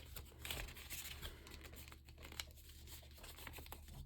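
Paper being handled and folded: soft crinkling and rustling with small scratchy clicks as a sheet is wrapped over and creased.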